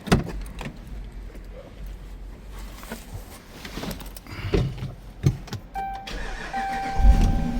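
Clicks and knocks from handling a Dodge Durango's door and cabin controls over a low steady hum. A steady electronic warning chime comes in about six seconds in, and a loud low rumble follows near the end.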